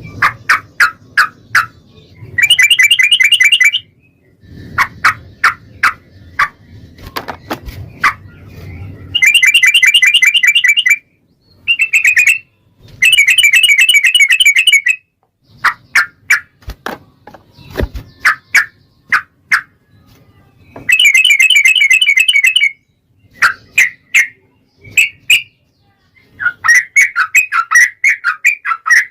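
Sooty-headed bulbul (trucukan) singing in rapid 'ropel' style. Strings of sharp chirping notes alternate with long, fast rattling trills of about two seconds each, four times over.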